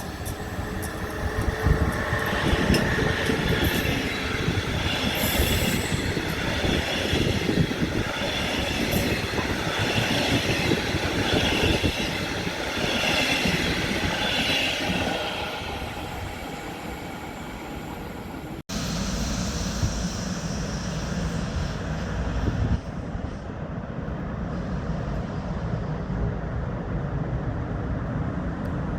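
A train passing on the rails, with high wheel squeal over heavy clatter and rumble. About two-thirds of the way in, the sound cuts off abruptly to a lower, steadier rumble.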